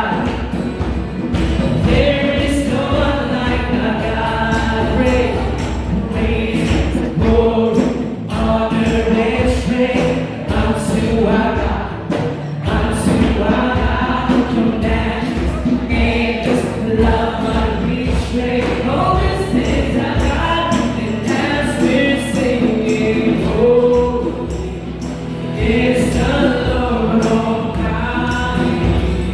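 Church choir singing a gospel worship song with band accompaniment, drums keeping a steady beat.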